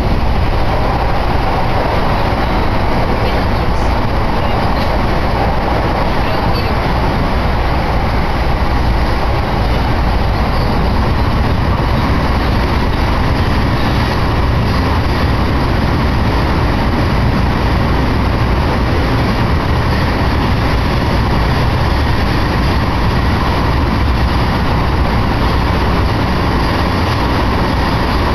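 Electric commuter train running at speed, heard from inside the carriage: a loud, steady rumble and roar of wheels on rail.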